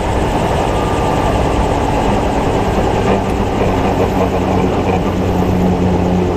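Helicopter engine and rotor running steadily in flight, an unbroken low drone.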